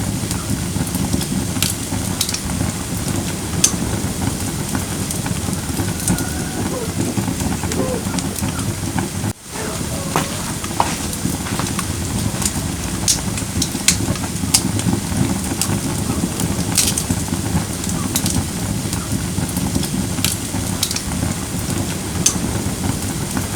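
Firewood burning in a fire pit: a steady low rush of flame with scattered sharp crackles and pops throughout. The sound drops out for an instant about nine seconds in.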